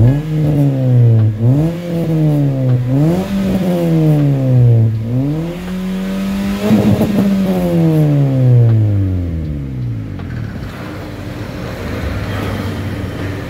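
Engine with an aftermarket racing exhaust being revved: about four rises and falls in pitch, the last rev held high for about a second before sliding back down. For the last few seconds it is quieter, with no clear pitch.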